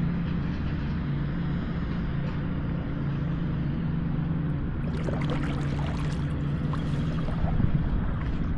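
Kayak paddle blades dipping and dripping in the water, with light splashes from about halfway through, over a steady low hum.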